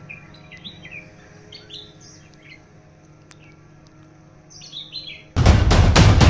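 Birds chirping in short, scattered high calls. About five seconds in, a sudden loud burst of rapid, evenly spaced beats cuts in and drowns them out.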